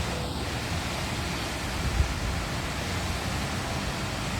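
Steady, dense rush of a large waterfall pouring into a canyon.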